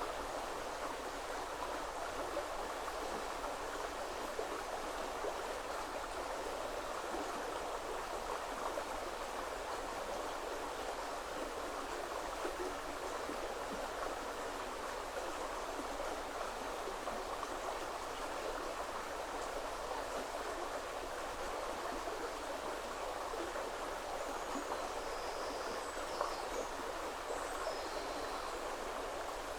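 River water flowing steadily, an even rushing sound. A few faint high chirps come near the end.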